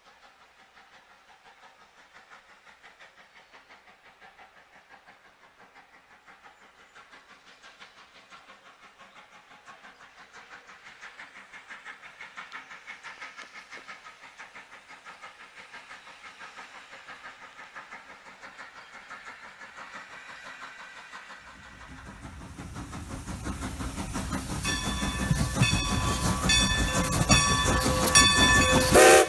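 A steam locomotive approaching, its exhaust beating rhythmically, faint at first and growing steadily louder, then loud rumbling from about three quarters of the way in as it draws close. Its steam whistle sounds in the last few seconds.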